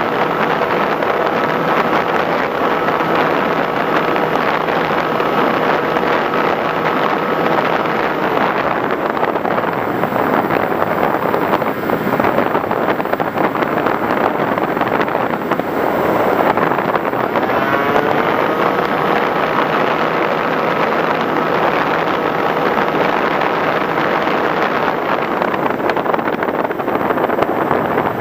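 Radio-controlled FPV model aircraft's motor running at a steady pitch over loud wind rush. The motor note drops away about eight seconds in, then comes back with a rising whine near 18 seconds as the throttle is opened again, and holds steady.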